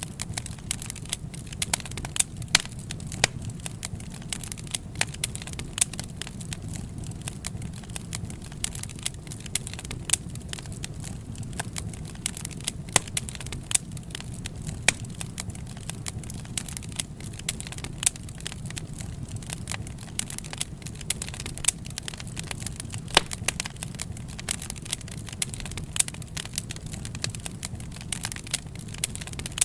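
Wood fire crackling: irregular sharp pops and snaps over a steady low rumble of the burning flames.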